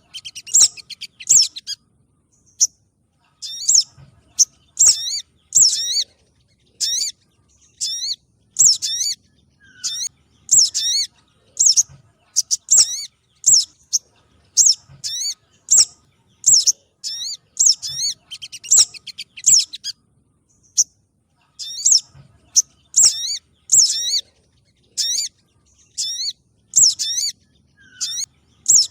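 Recorded spiderhunter (sogon) calls played as a bird-trapping lure: short, sharp, high chirps repeated about twice a second in runs, with short pauses about two seconds in and again around twenty seconds in.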